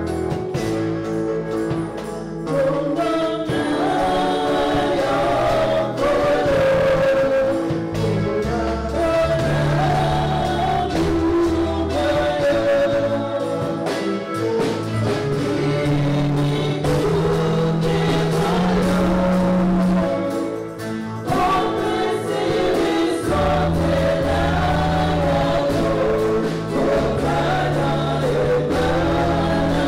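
Congolese gospel song: several voices singing together over instrumental backing with a steady bass line.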